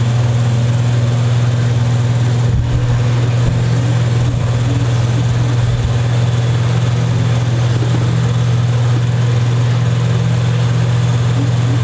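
A steady low hum at one unchanging pitch, with a few soft low bumps between about two and a half and six seconds in.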